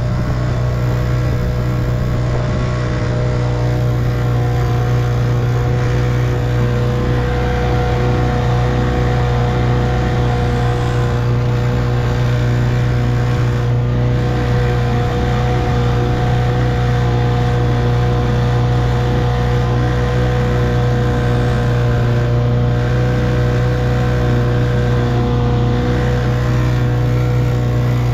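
1958 Evinrude 3 hp two-stroke outboard motor running steadily at a constant speed, with a strong low hum and no change in pitch.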